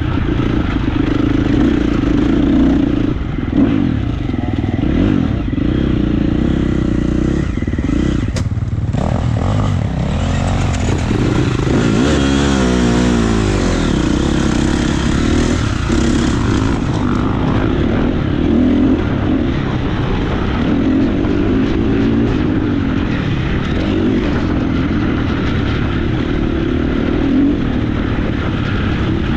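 Motocross bike engine revving up and down as it is ridden round a track, its pitch rising and falling all the way through.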